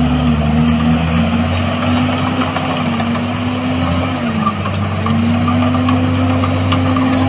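Diesel engine of a heavy construction machine running steadily under load. Its pitch sags about four seconds in and then climbs back.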